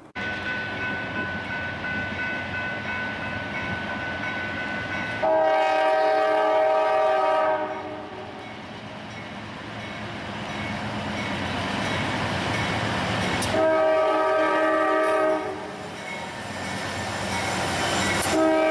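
Locomotive horn sounding a multi-note chord in two blasts, the first about two and a half seconds long and the second shorter, with a third starting near the end. Underneath is the steady rumble of a moving train.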